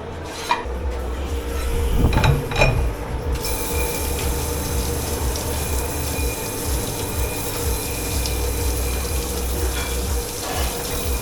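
Water running from a tap into a dish-pit sink, starting about three seconds in after a few clattering knocks, over a steady hum.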